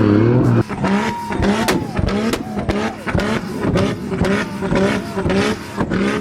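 Performance car engine held at high revs, then from about half a second in revved in quick repeated blips with sharp exhaust pops and bangs: the crackle of a car shooting flames from its exhaust.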